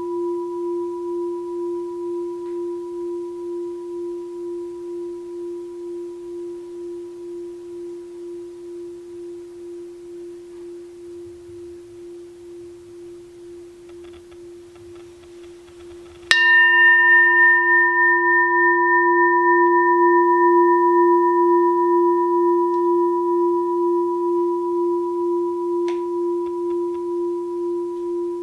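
A 6-sun (about 18 cm) Daitokuji rin, a Japanese Buddhist bowl bell, rings on with a slow wavering beat and fades for about sixteen seconds. It is then struck once more and rings out loud again, bright upper tones dying away first. Its bottom is dented from being dropped, yet it still gives a good tone.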